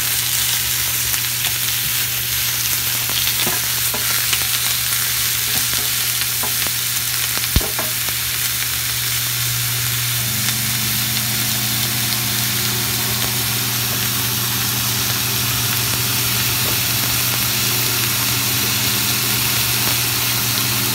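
Tomatillos, onion, poblano pepper, garlic and a serrano chile frying in oil in a skillet: a steady sizzle with a few sharp taps. A steady low hum runs underneath, joined by a second, higher hum about halfway through.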